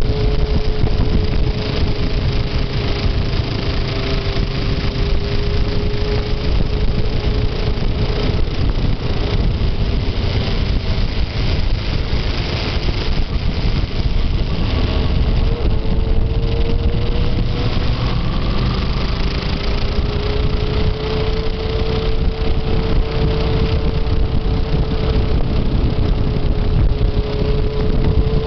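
Motorcycle engine running at a fairly steady speed while riding, its pitch drifting slowly down and back up, over heavy low wind rumble on the microphone.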